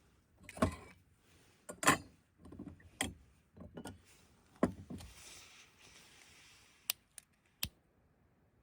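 Irregular knocks and clicks, one every second or so, with a brief hiss in the middle and a few sharper clicks near the end.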